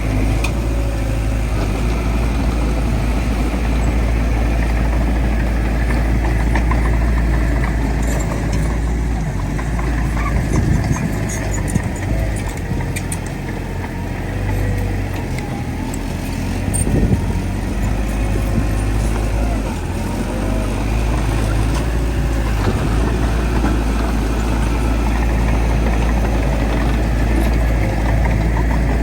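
Heavy diesel earthmoving machinery running steadily with a deep, constant rumble, its engine pitch wavering slightly up and down as it works, with a few faint metallic ticks in the middle.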